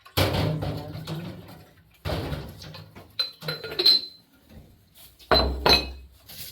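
Hard objects clattering and clinking: three loud knocks, the later ones followed by short high ringing tones.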